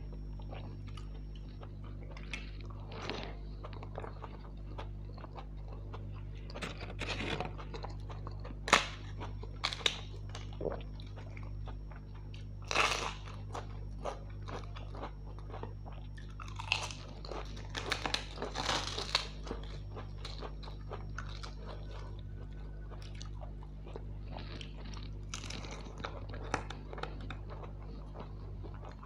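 Close-up eating sounds: a person chewing a mouthful of rice and soya chunks with wet mouth noises, broken by several sharp crunches of crisp fried papad, loudest near the middle. A steady low hum sits underneath.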